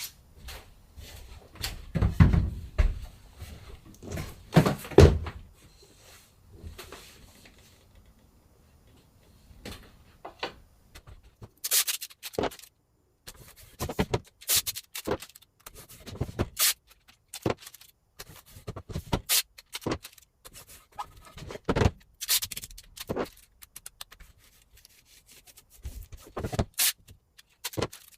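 Handling noises from silkscreen plate-making work. A few dull thuds come in the first five seconds, followed by scattered sharp knocks, clicks and light scraping as objects are set down and moved.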